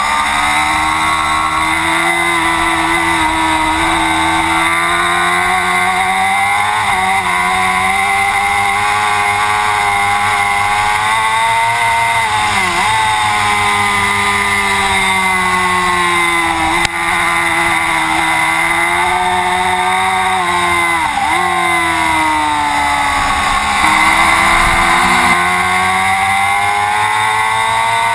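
Racing superbike engine running hard at high revs, its pitch sweeping up through the gears and falling away, with two sharp drops and quick climbs back up about 13 and 21 seconds in.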